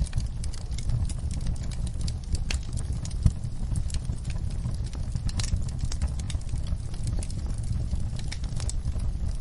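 Fire burning in a fireplace: a steady low rumble under irregular crackles and pops, with one sharper pop a little over three seconds in.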